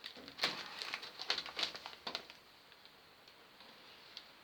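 Protective plastic film being peeled off a 1 mm aluminium panel and handled: a scatter of crinkles and small taps that stops a little over two seconds in.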